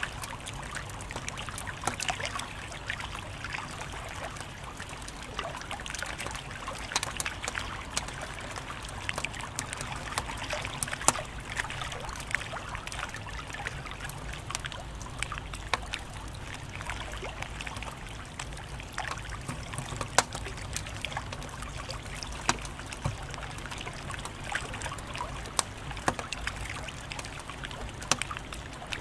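Wood fire crackling: a steady hiss studded with many small sharp pops and snaps, a few of them louder.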